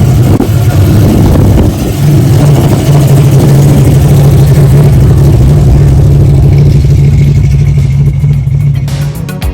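A car engine running loudly at steady raised revs, with a short dip about two seconds in, then held evenly until it cuts off near the end.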